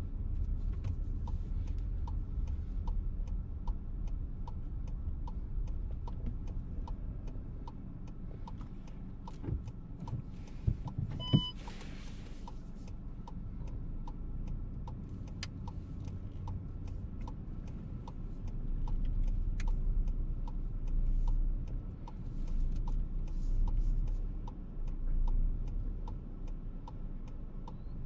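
Turn-signal indicator of a VW T-Roc ticking steadily over the low running of the car while it reverses slowly into a parking space, with a faint steady high squeak in the background. A short electronic beep sounds once about eleven seconds in.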